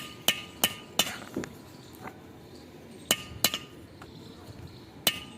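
Sharp metal-on-metal taps, each with a short bright ring: a quick run of four in the first second, a pair about three seconds in, and another tap near the end.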